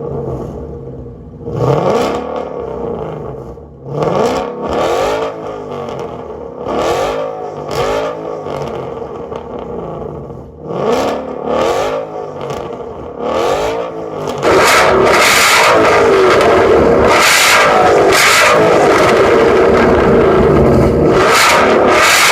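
Ford Mustang engine revved through a true dual catback exhaust: about ten quick throttle blips, each rising and falling in pitch. About two-thirds of the way through, the sound jumps abruptly to a loud, steady rush, with the engine still revving beneath it.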